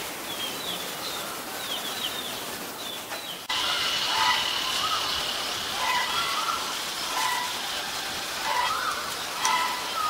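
Small birds calling: quick high chirps at first. About three and a half seconds in, the sound jumps abruptly to repeated short whistled phrases that rise and fall, over a steady high tone lasting a few seconds.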